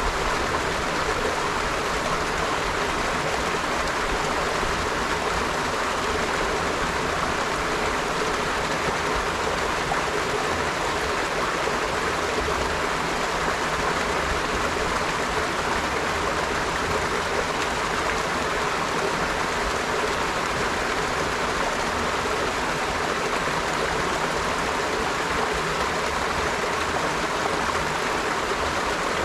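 A river flowing, a steady rushing of running water with no change or break.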